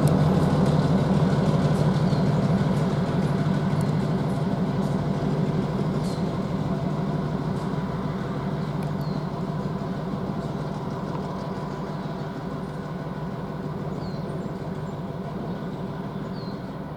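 Diesel engine of a Morristown & Erie GP15-1 locomotive, an EMD 12-cylinder 645 engine, running with a steady low drone. The sound fades gradually as the train moves away.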